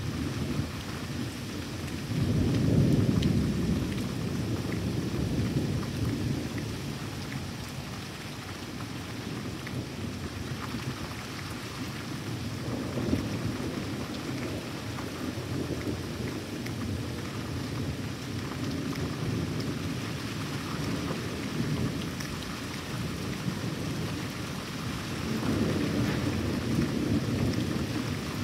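Steady rain with rolling thunder: a loud low rumble about three seconds in, a softer one around the middle, and another near the end.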